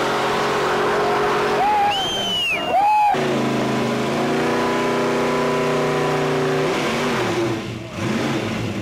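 Car engine running steadily, blipped twice in quick succession about two seconds in, then settling back to a steady run.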